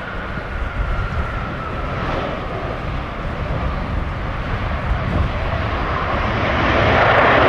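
Jet airliner engines with a faint high whine that drifts slightly lower, their broad noise swelling louder over the last second or two, over a steady low wind rumble on the microphone.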